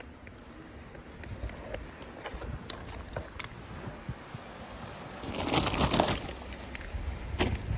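Wind buffeting the microphone during a snowstorm, with scattered light clicks and a louder rush of noise about five seconds in.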